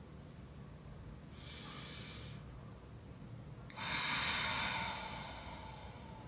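A person breathing out heavily twice, as in sighs. The first is short, and the second, about four seconds in, is longer and louder and starts sharply before fading away.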